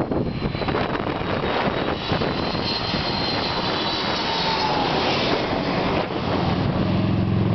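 Airliner passing low overhead on approach to land, its engines making a loud roar with a high whine that drops in pitch as it goes over. A lower steady hum comes in near the end.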